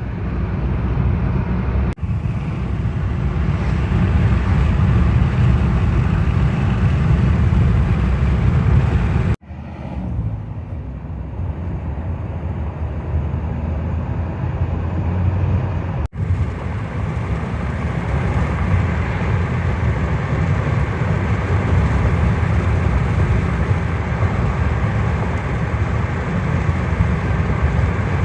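Steady rumble and road noise of a moving vehicle, broken by three abrupt cuts, about 2, 9 and 16 seconds in.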